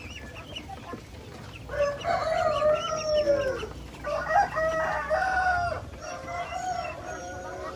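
Roosters crowing: three long crows one after another, the last one weaker, with hens clucking around them.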